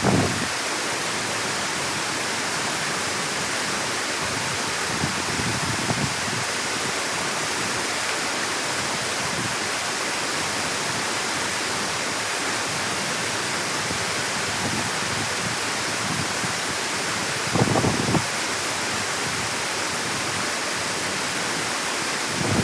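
Steady rushing of water through a dam, with brief low gusts of wind buffeting the microphone near the start and again about three-quarters of the way through.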